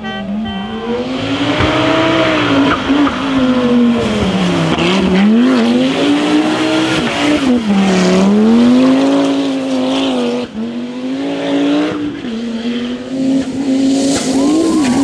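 Rally car engine running hard at high revs, its pitch dropping and climbing back several times as the driver lifts off and accelerates again, with tyre noise underneath.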